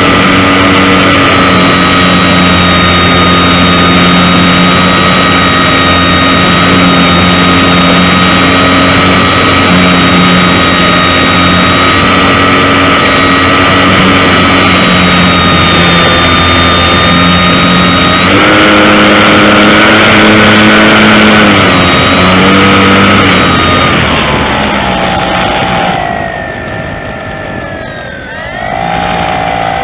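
Electric motor and propeller of a small foam RC plane, heard close up from the wing with wind rushing past, running as a steady whine. About two-thirds of the way through the throttle goes up and the whine rises in pitch for a few seconds, then it is throttled back and the pitch glides down and the sound gets quieter near the end.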